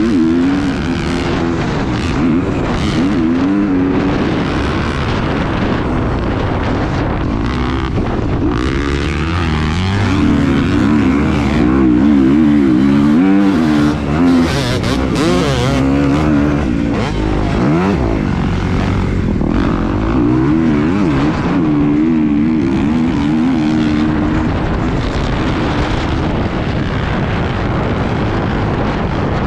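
An engine running steadily, its pitch wavering up and down, with a rushing noise over it.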